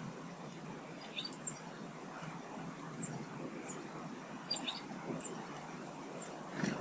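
Small garden birds chirping: scattered short, high-pitched chirps, a couple of them falling in pitch, over a steady low background noise.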